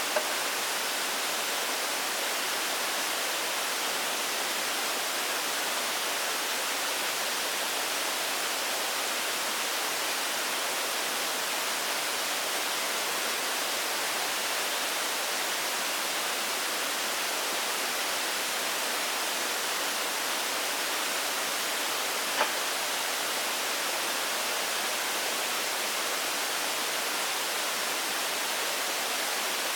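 A steady, even hiss that does not change, with a short sharp click right at the start and another about 22 seconds in.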